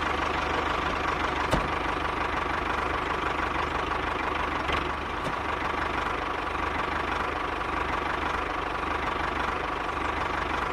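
Small DC motor and gear drive of a homemade toy tractor running steadily as it pulls a loaded trailer, a steady mechanical whine with a faint tick or two.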